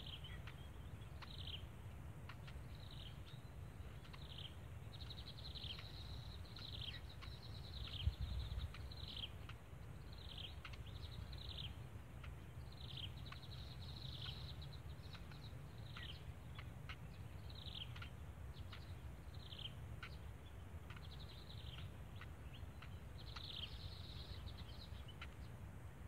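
Birds chirping: a steady run of short high chirps, each sliding down in pitch, about one or two a second, over a low steady rumble. There is a soft thump about eight seconds in.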